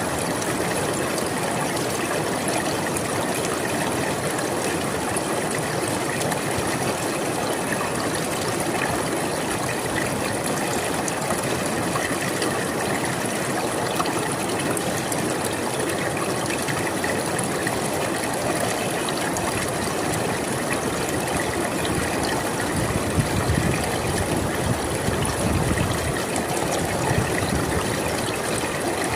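A river flowing steadily, an even rush of water. A few seconds from the end, a deeper rushing swells up briefly.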